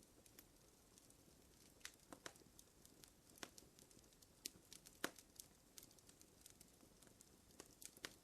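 Wood fire crackling: irregular sharp pops and snaps over a faint hiss, with a louder pop about five seconds in.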